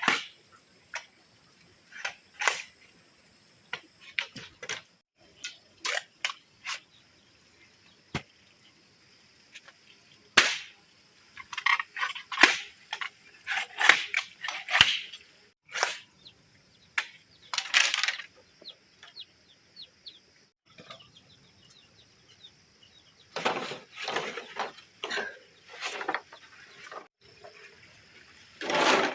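Irregular sharp knocks and clatter of hand work, in several busier spells, over a faint steady high whine.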